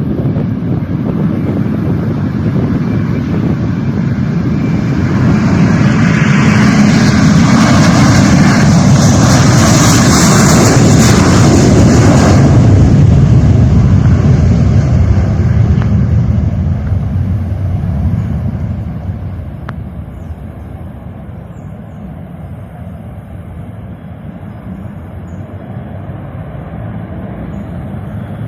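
Jet airliner passing by, its engine noise building to a loud rush with a high hiss, then fading away to a low rumble.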